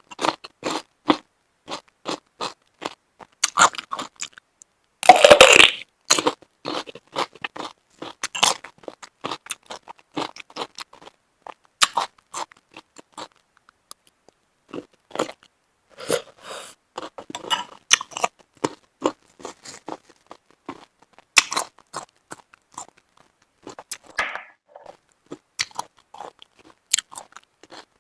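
Close-miked eating sounds: wet chewing with many short, crisp crunches and clicks. A louder run of crunching comes about five seconds in.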